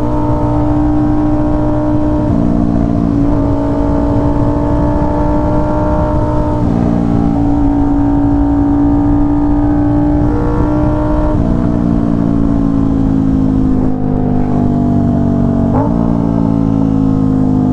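Aprilia RS660's parallel-twin engine running through an SC Project S1 full titanium exhaust while riding, with wind noise on the microphone. The engine note holds steady with a few small shifts in pitch, then eases slowly down over the last few seconds.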